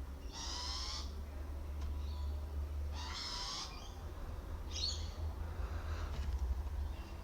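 A bird calling over and over: two harsh, raspy calls of about three-quarters of a second each, one near the start and one about three seconds in, then a shorter, higher call around five seconds in, over a steady low hum.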